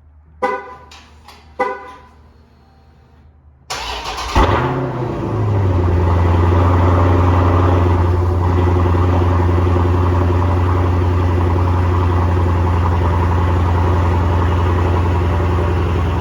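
Two short tones sound, then a Dodge Challenger Scat Pack's 392 (6.4-litre) HEMI V8 cranks and fires about four seconds in. It flares up briefly, then settles into a loud, steady cold-start idle.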